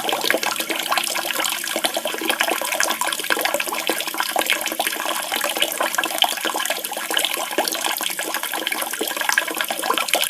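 Steady running and splashing water, a continuous dense trickle.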